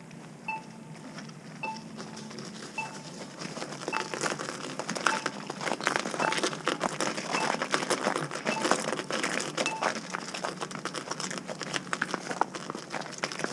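Accessible pedestrian signal at a crosswalk beeping about once a second, with crunching footsteps in snow getting louder from about four seconds in.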